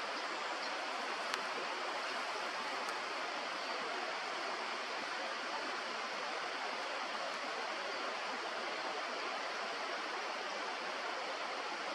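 Steady rushing of a river or stream, an even noise that does not change, with a short sharp click about a second and a half in.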